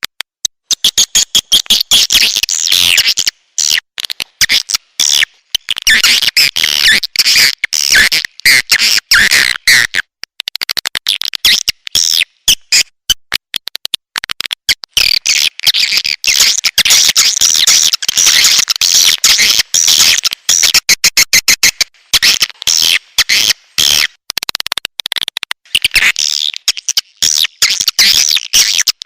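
Recorded swiftlet calls: a dense, rapid twittering of chirps and clicks, with brief breaks. It is a lure track played from speakers to draw swiftlets into a nest house.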